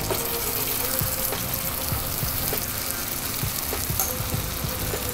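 Oil and ground spices sizzling in a frying pan around freshly added Kashmiri red chilli paste: a steady hiss with scattered small pops and crackles.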